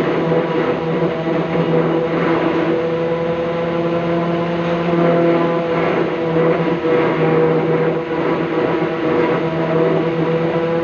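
Small electric motor running steadily at a constant speed, giving a continuous hum with a rough, noisy edge.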